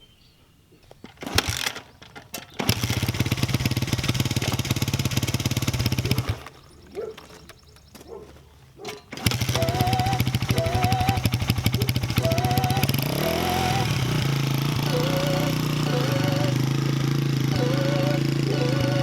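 1989 Honda XR100's single-cylinder four-stroke engine, on a freshly fitted carburettor, being started with the kickstarter: it runs for about four seconds and dies, then catches again about nine seconds in and idles steadily, with one brief rev a few seconds later.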